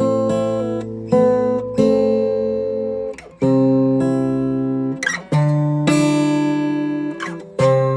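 Acoustic guitar music: chords strummed and left to ring, a new chord struck about every one to two seconds.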